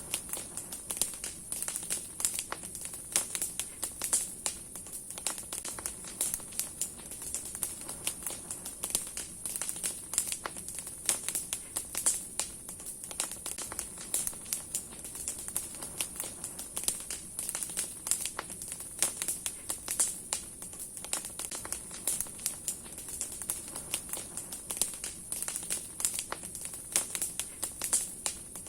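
Large wood fire of burning logs and branches crackling steadily, with many sharp irregular pops and snaps over a soft hiss.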